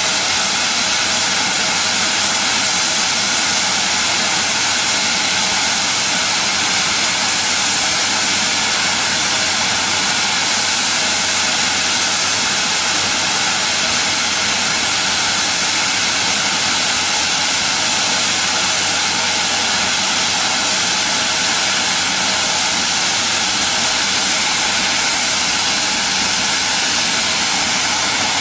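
Aircraft jet engine running steadily: a loud, even rushing hiss.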